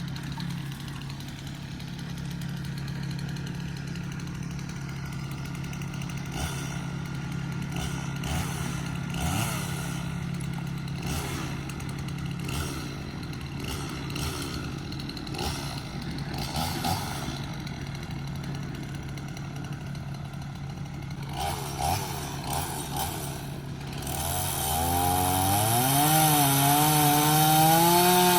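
Chainsaw engine running steadily, then louder for the last few seconds, its pitch rising and wavering as it is revved.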